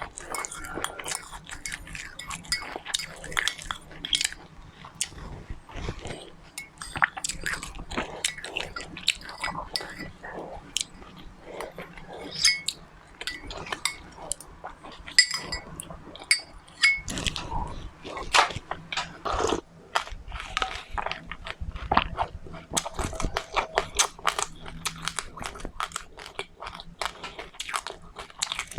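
Close-up mouth sounds of someone chewing and crunching seeds: dense, irregular crackling clicks. A few light clinks are heard, about halfway through.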